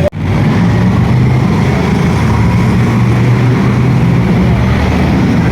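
V8 stock car engines running loudly and steadily. The sound drops out for an instant right at the start.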